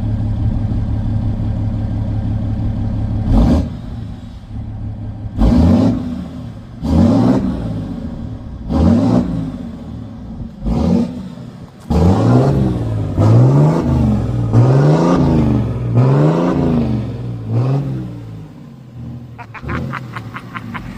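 Dodge Cummins inline-six turbo diesel, running through newly fitted vertical exhaust stacks on their first start. It idles steadily, then is revved up and let back down a dozen or so times, with quick back-to-back revs in the middle, before settling back to idle near the end.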